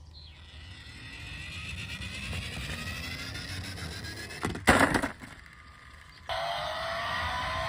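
Car engine revving, its pitch rising over several seconds. A loud, short crash-like burst comes about two-thirds of the way in, then a louder engine revs up again near the end.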